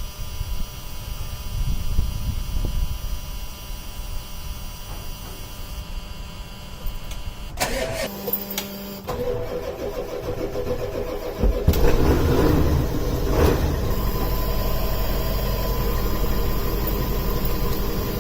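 A 1996 Ford E350's 7.3-litre Powerstroke V8 turbo-diesel being started after a long layoff on fresh batteries. The starter cranks from about eight seconds in, and about three seconds later the engine catches and settles into a steady run.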